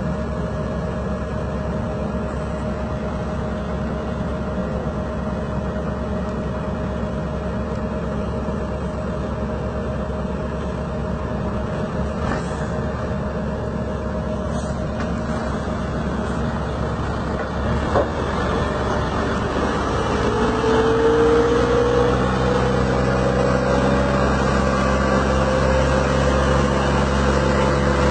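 Heavy truck engine running steadily. About two-thirds of the way in, after a click, its revs pick up and it settles into a louder, higher note with a whine.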